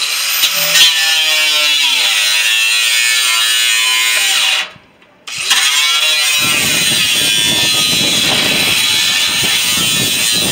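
Handheld electric power tool run in two bursts, its motor whine spinning up and the pitch sagging and wavering under load. It stops briefly near the middle, then runs again, turning harsher and noisier from about six seconds in.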